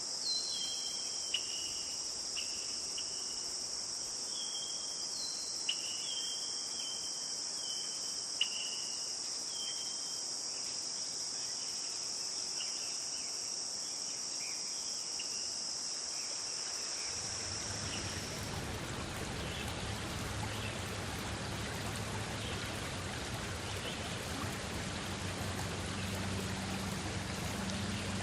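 Crickets trilling steadily, mixed with short falling chirps and a few sharp clicks. About two-thirds of the way in, the trilling stops abruptly and gives way to the steady rush of running water, as of a stream.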